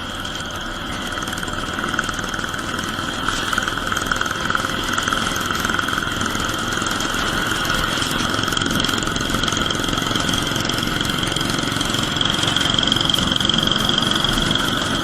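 Royal Enfield Bullet 350 single-cylinder engine thumping steadily through a short bottle silencer at highway cruising speed, getting a little louder in the first few seconds.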